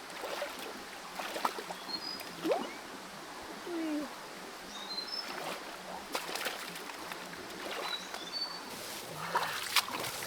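Small forest creek running, with scattered splashes and light knocks in the water and a few short high-pitched chirps.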